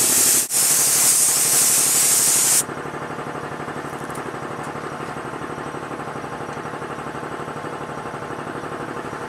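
Paint spray gun hissing loudly, with a brief break about half a second in, then stopping. After that a steady machine sound with a fast, even pulse keeps running at a lower level.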